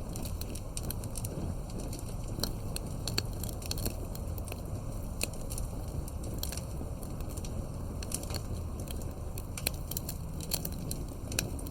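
Campfire crackling: irregular sharp pops and snaps from burning firewood over a steady low rumble.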